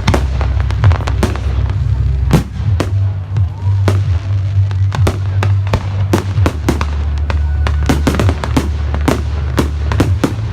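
Fireworks display: an irregular run of sharp bangs and cracks, coming thicker from about five seconds in, over a steady low rumble.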